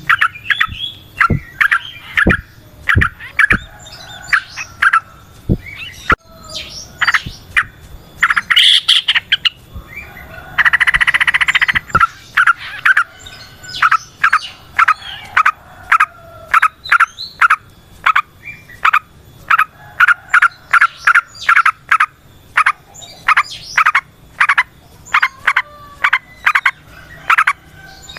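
Yellow-vented bulbul (trucukan) singing a long, rapid run of short, bright chirping notes in quick succession, with a harsh rasping chatter lasting about a second near the middle.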